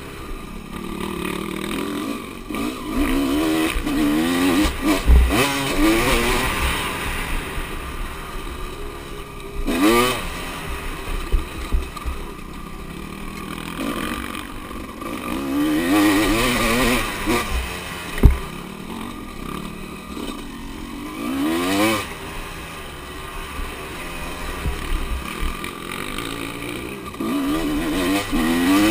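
Motocross bikes racing: their engines rev up and fall away in repeated waves as they accelerate and pass, over a steady background of other engines. There are two short, dull low thumps, one about five seconds in and one near the middle.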